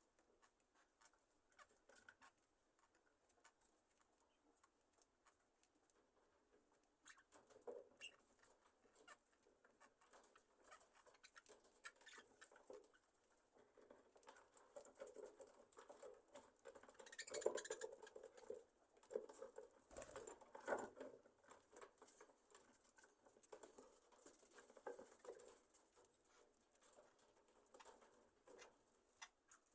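Faint scratching, clicking and rustling of budgerigars shifting about on perches and ruffling their wings as they settle for the night. Sparse at first, the small sounds grow busier about a quarter of the way in and are loudest near the middle.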